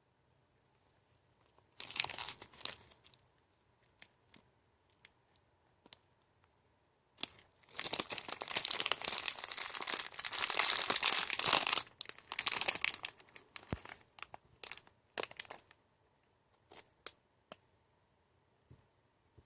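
Wrapper of a Nature Valley granola bar being torn open and crinkled. A short crinkle comes about two seconds in, then a longer stretch of tearing and crumpling from about eight to thirteen seconds, followed by scattered small crackles.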